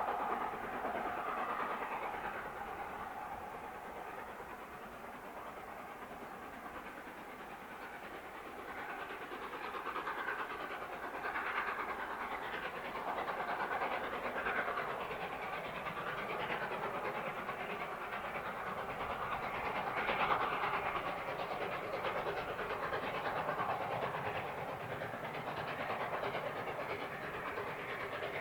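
Steam train running on the line, carriage wheels clattering over the track, with some hiss of steam; the sound swells and eases gently.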